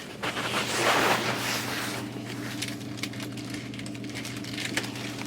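Car engine running steadily, heard from inside the cabin, with a loud rush of noise in the first couple of seconds and a few light clicks.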